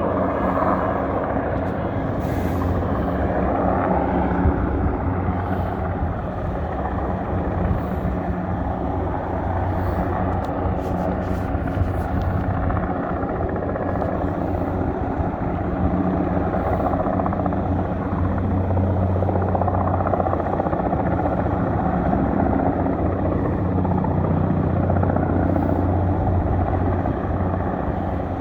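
Erickson S-64 Air-Crane heavy-lift helicopter running steadily during a sling-load flight: a deep, continuous rotor and turbine drone that swells and eases gently every few seconds.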